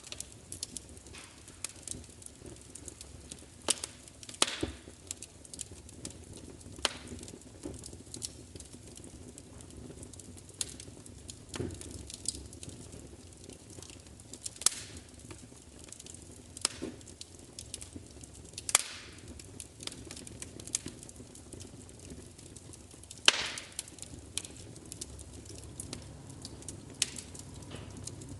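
Wood fire crackling: irregular sharp pops and snaps over a low, steady hiss, with a few louder snaps scattered through.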